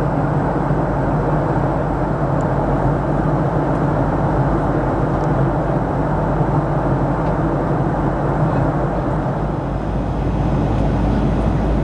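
Steady cabin noise inside a Boeing 737-700: a constant hum and rush from its CFM56-7B engines and the airflow around the fuselage.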